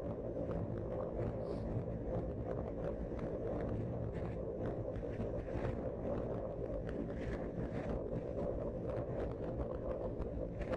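Wind from a dust storm buffeting the microphone: a steady, low rushing noise that never lets up.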